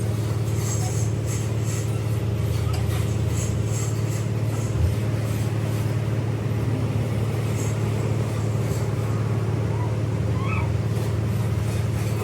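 A workshop machine running with a steady, even hum, with light metallic clinks scattered over it and one brief low thump about five seconds in.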